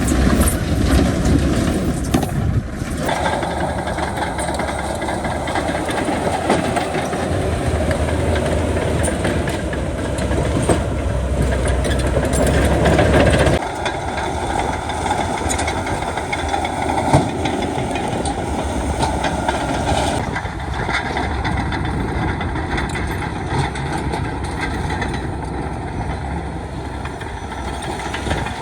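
Diesel engines of heavy earthmoving machinery running steadily, with scattered clanks. The sound shifts abruptly about three seconds in and again about halfway through.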